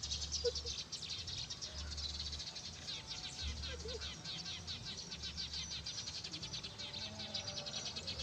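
A flock of sparrows chirping rapidly and continuously, many short chirps overlapping into a dense chorus.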